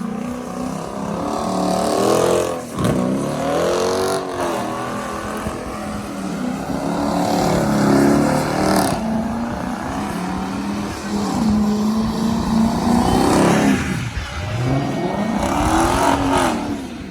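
Muscle-car V8 engines revving up and down again and again, the pitch climbing and falling in repeated sweeps. The sound drops away suddenly at the very end.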